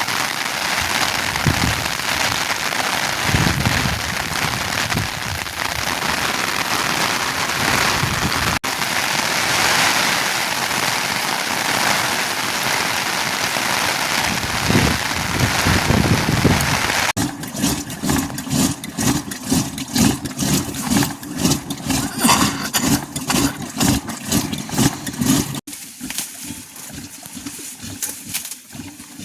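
Steady rain falling, an even hiss. About seventeen seconds in the sound changes to a quick, irregular pattering, and it drops quieter near the end.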